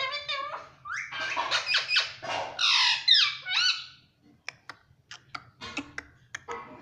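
Ringneck parrot squawking and chattering in a run of high, sweeping calls, loudest about three seconds in, followed by a series of short sharp clicks.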